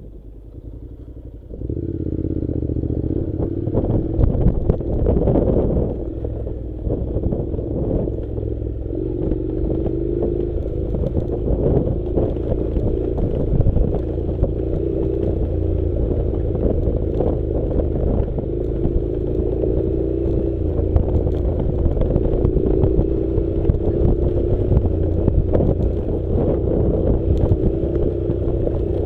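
Honda NC700's parallel-twin engine running under way on a dirt track, with clattering and scraping from gravel and the bike's rattles. The sound jumps up sharply about two seconds in, then stays loud and steady with a slightly wavering engine note.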